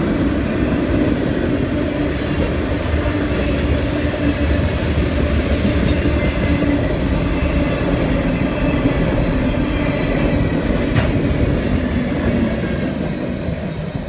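CSX freight train passing close by, a steady loud run of wheel-on-rail noise and clatter that begins to die away near the end as it goes by.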